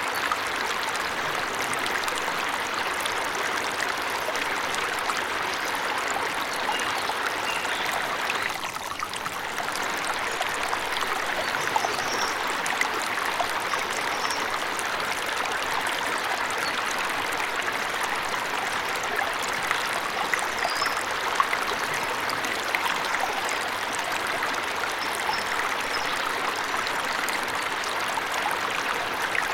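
Waterfall water rushing and splashing steadily, a dense even hiss that dips briefly about nine seconds in. A few faint, short high chirps sit above it.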